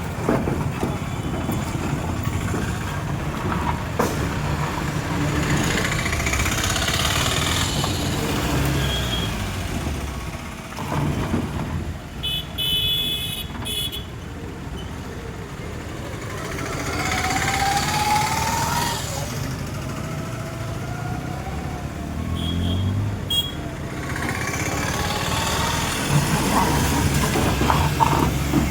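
Off-road vehicle's engine running under load, the revs rising and falling as it drives.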